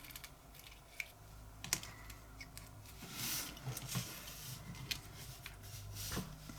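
Scattered light clicks and taps of tiny metal drill bits being handled and tried for size in a lighter, with a brief rustle about three seconds in.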